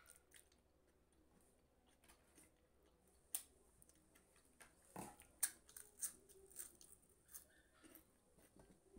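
Crisp fried pappad being bitten and chewed, a run of sharp crunching crackles that starts about three seconds in and carries on to near the end, the loudest a little past the middle.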